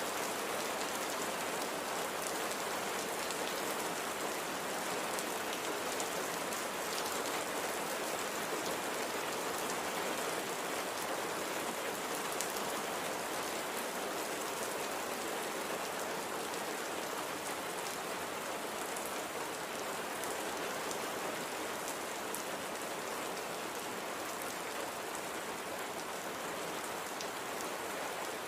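Steady light rain falling, an even patter with scattered fine drop ticks.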